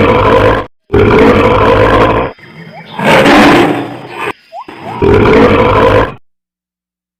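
A large animal roaring loudly in four rough bursts, each lasting about a second, with the sound stopping suddenly about six seconds in.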